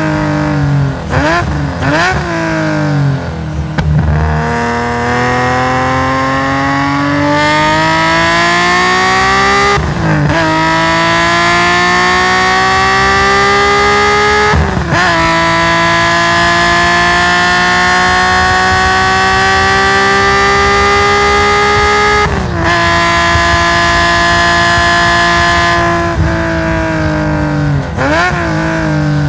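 Nissan S20 twin-cam straight-six race engine with a straight-through stainless exhaust, heard on board at full throttle. Quick throttle blips on downshifts at first, then the revs climb in long pulls with two fast sequential-gearbox upshifts, hold high, drop off as the driver lifts, and blip again on downshifts near the end.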